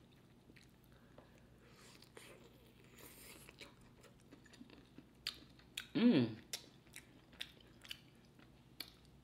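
Close-miked chewing of a bacon-wrapped stuffed jalapeño: faint wet mouth clicks and smacks that come thicker in the second half, with a brief hummed murmur from the eater about six seconds in.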